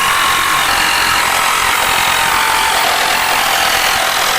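Power saw running steadily, making relief cuts across the back of a wooden chine log so the stiff timber will bend.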